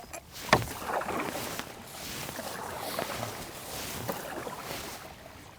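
Water sloshing and splashing irregularly as someone wades through shallow marsh water, with a sharp knock about half a second in.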